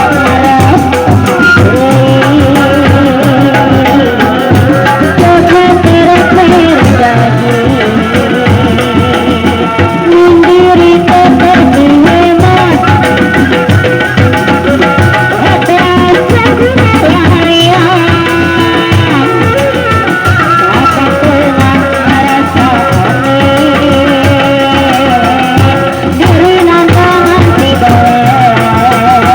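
Loud kuda lumping ensemble music: hand drums beat steadily under a wavering melody line, with some singing.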